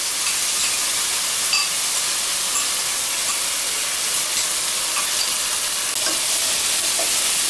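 Mint paste and mixed vegetables sizzling steadily in hot oil in a pot, stirred with a wooden spatula, with a few faint ticks of the spatula against the pot.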